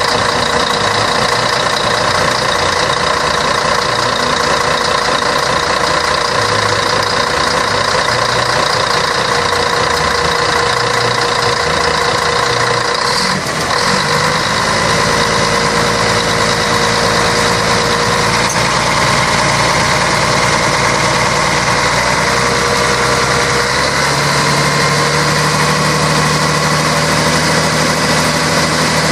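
Scania K113 bus's 11-litre six-cylinder diesel engine running steadily. Its sound dips briefly about halfway through, and its low tone shifts in the last few seconds.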